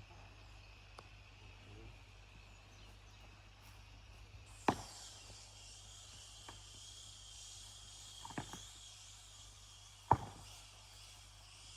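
Quiet ambience with three sharp, short cracks or snaps about five, eight and ten seconds in, the last the loudest; a faint steady high hiss sets in with the first crack.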